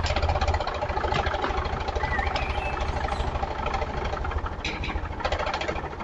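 An engine idling steadily with a fast, even chugging knock.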